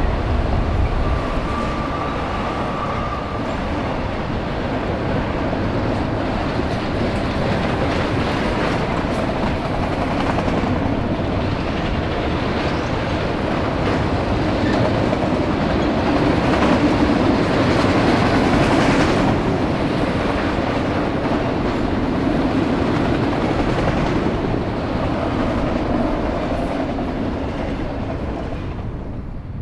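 A train passing close by: a steady rumble of steel wheels rolling on the rails, swelling to its loudest around the middle and fading away near the end.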